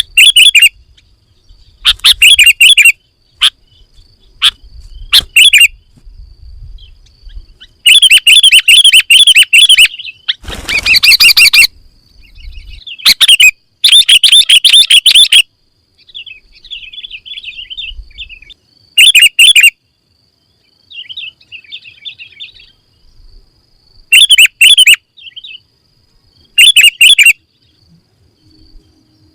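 Sooty-headed bulbul singing in loud bursts of chirping phrases, each lasting a second or two, with softer twittering in the gaps between them.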